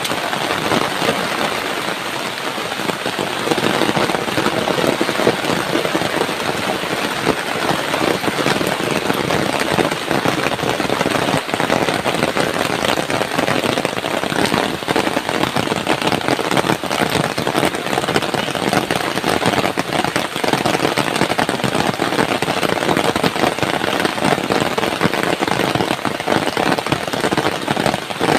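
Heavy rain pouring down steadily, a dense, unbroken patter of drops.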